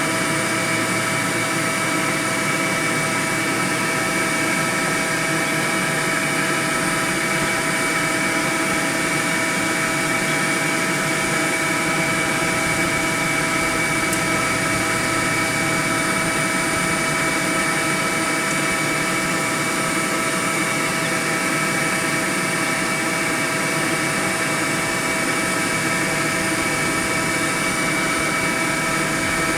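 Honeybee swarm buzzing, a dense, steady drone that holds at an even level throughout, with a few fixed tones running through it.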